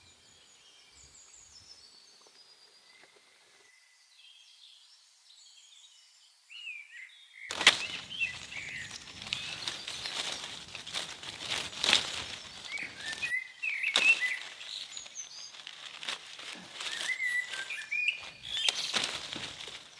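Small birds chirping. From about seven seconds in, a close run of irregular clicks, knocks and scrapes joins them and becomes the loudest sound.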